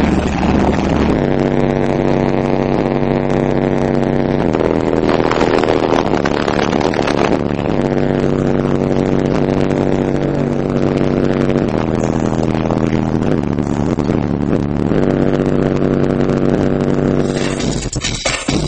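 A Memphis Car Audio Mojo 15-inch subwoofer in a ported enclosure playing bass-heavy music very loud. A buzzing low synth line holds each note for a few seconds, then steps to the next.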